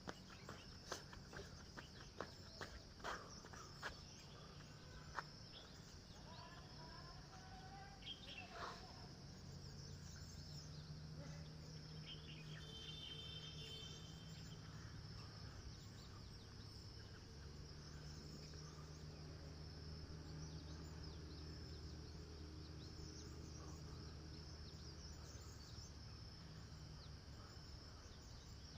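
Faint outdoor ambience: insects chirping in a steady high drone. There are a few sharp clicks in the first five seconds and a low hum from about ten seconds in.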